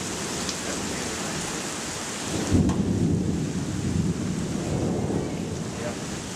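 Heavy storm rain pouring steadily. About two and a half seconds in, a loud low rumble rises suddenly and fades over the next couple of seconds.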